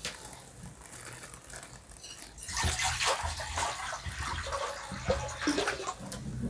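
Ground onion and green-chilli paste frying in oil in a steel pot, sizzling as a steel spoon stirs and scrapes through it; the sizzling grows louder about two and a half seconds in.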